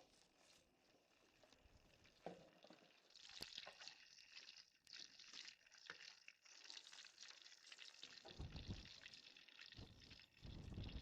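Hot oil sizzling and crackling as food deep-fries, starting about three seconds in. Two low thumps come near the end.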